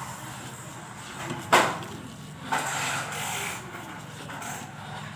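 MAP gas torch flame hissing steadily, with a loud sharp knock about one and a half seconds in and a lighter one a second later.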